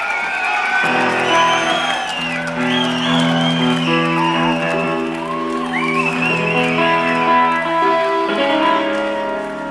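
Live rock band on stage holding sustained guitar notes between songs, with whistling and cheering from the crowd.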